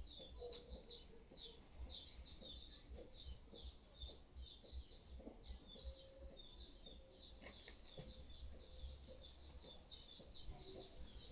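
Faint chirping of small birds, a steady run of short high chirps, several a second, over a low rumble.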